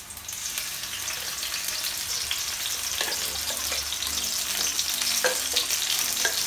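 Blended paste of shallots, garlic and chilli poured into hot oil in a wok, sizzling and getting louder as more of it goes in, with a few light knocks along the way.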